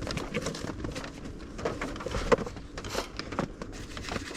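Irregular small rustles, clicks and taps of paper and plastic stationery, Post-it pads and sticker packs, being handled and packed into a storage box.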